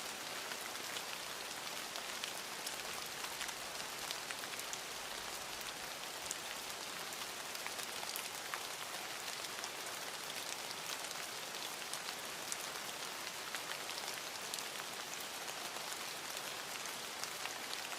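Falling water pattering steadily, with many small drips splashing through it.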